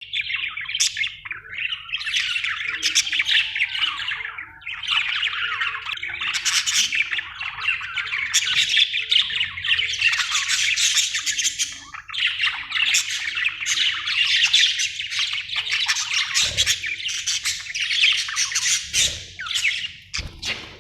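Budgerigars chattering nonstop: a dense, busy stream of chirps and warbles that fades out just before the end.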